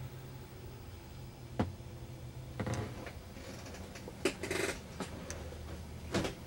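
Caterpillar C15 diesel idling as a steady low hum heard inside the truck cab, with several sharp clicks and knocks spread through it.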